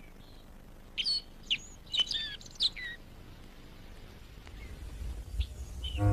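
Birds chirping: a cluster of quick, high, sliding chirps about one to three seconds in, with a few fainter ones later. A low rumble rises near the end.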